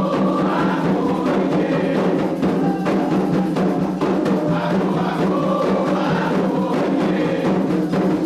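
Candomblé ritual music: atabaque hand drums beating a steady rhythm under group chanting.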